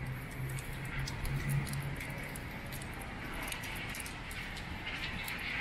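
Rain pattering on a wet city street: a steady hiss with many small, irregular drop ticks. A low steady hum fades out about two seconds in.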